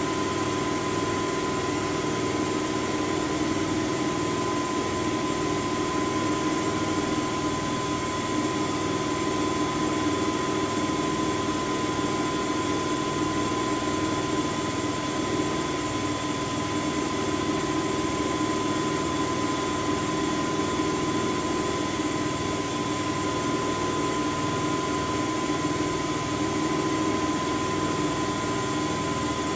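Front-loading washing machine spinning at speed: a steady whir with a constant high whine.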